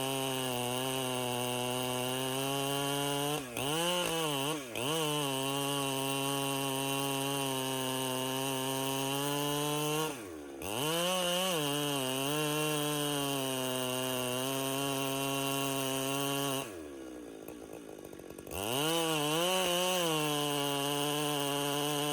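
Two-stroke chainsaw running at high revs under load, cutting wood. The engine note dips briefly twice a few seconds in and again about halfway, then falls toward idle for about two seconds before revving back up.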